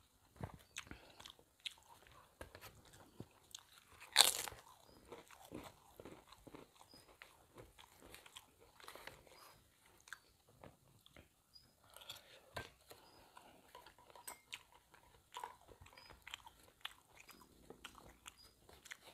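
Close-miked chewing and crunching while eating lotek, vegetables in peanut sauce with crackers, spooned from a paper wrapping. There are many small crunches and clicks, and one loud crackle about four seconds in.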